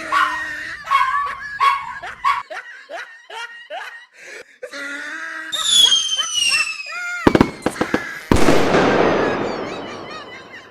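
Laughing and snickering for the first few seconds, then a whistle falling in pitch. A couple of sharp cracks follow, and about eight seconds in a loud firecracker bang dies away over a couple of seconds.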